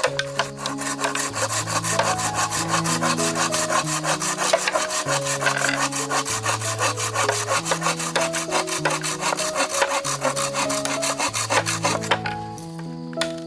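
Background music with a slow, stepping bass line, overlaid by rapid, even rasping strokes that stop about twelve seconds in, leaving the music alone.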